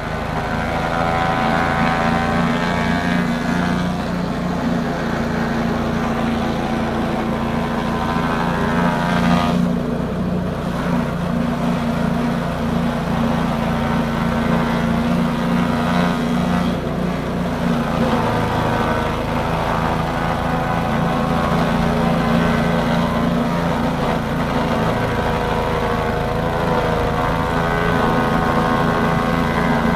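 Elephant grass chopping machine running steadily: a motor drone with a higher whine over it that wavers now and then.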